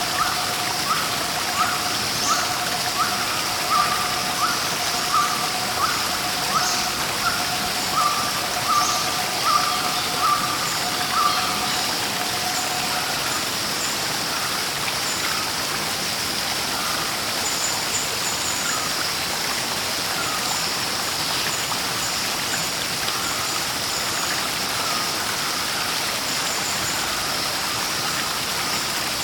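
Steady rush of a stream or waterfall. Over it, a bird repeats a short rising chirp about twice a second for the first twelve seconds or so, then thinner, higher chirps come in here and there.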